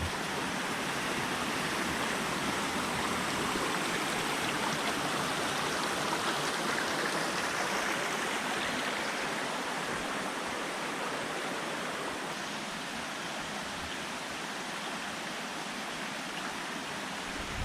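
Mountain stream rushing over rocks, a steady wash of water that swells slightly then eases a little toward the end.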